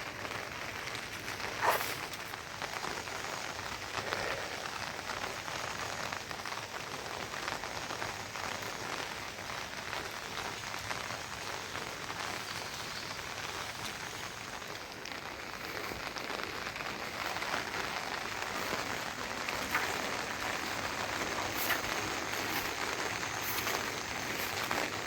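Steady rain falling, with a few sharper drop hits standing out from the patter.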